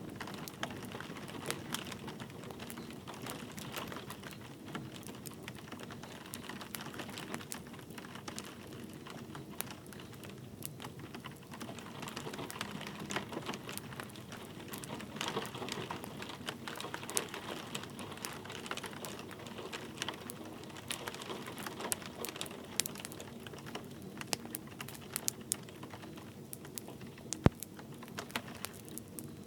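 Wood fire crackling with many small, quick pops over a steady patter of light rain; one sharp pop stands out near the end.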